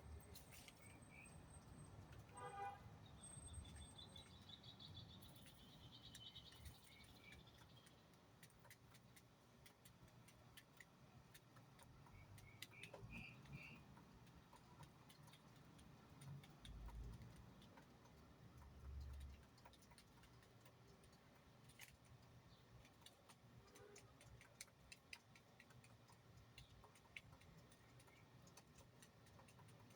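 Very quiet background with scattered soft ticks, and a few faint bird chirps and one short high trill.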